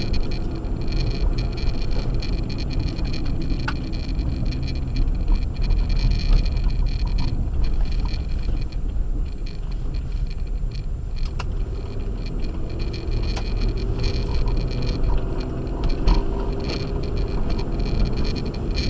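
Acura MDX SUV driving on a snow-covered road on Sumitomo Ice Edge winter tyres: a steady low rumble of engine and tyre noise, with the engine note rising slightly in the second half.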